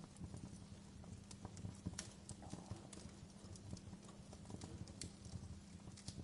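Wood fire crackling: faint, irregular pops and snaps, several a second, over a steady low rumble.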